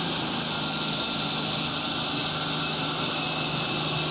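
Turbocharged super stock pulling tractor engine running at a steady pitch with a thin high whine over it, during a pull in which something is definitely not right.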